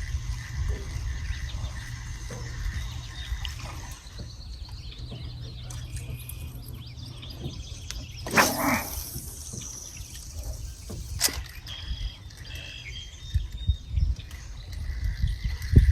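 Birds chirping outdoors over a low steady rumble, with a brief rushing noise about halfway through and a sharp click a few seconds later.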